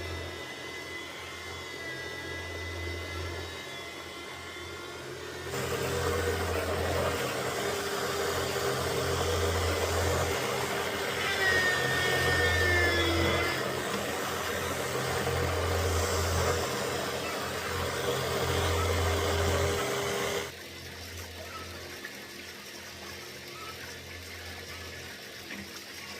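An engine running steadily, with a low hum that swells and fades every second or two. The sound gets louder abruptly about five seconds in and drops back abruptly near twenty seconds.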